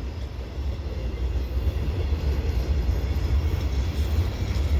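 Freight train flat cars rolling past: a steady rumble of steel wheels on the rails.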